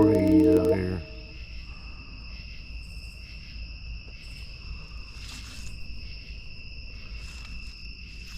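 Music ends about a second in, giving way to a steady outdoor chorus of night insects: two unbroken high trills with faint background noise.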